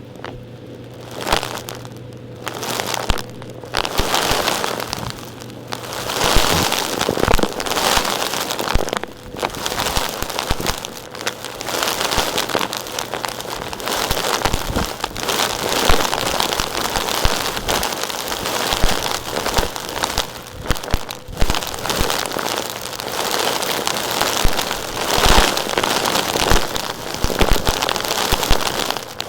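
Dense, irregular crackling and rattling of gritty, rocky material, with many sharp clicks, building up after about four seconds.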